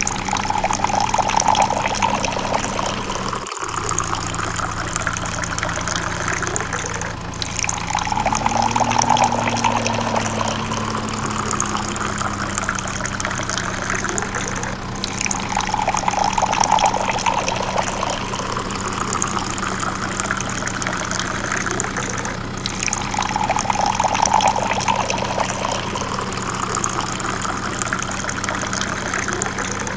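A small electric mini water pump runs with a low motor hum while water pours and splashes steadily. The hum cuts out about three and a half seconds in and starts again about eight seconds in, rising briefly before it settles. The water sound swells and fades in an even cycle about every seven and a half seconds.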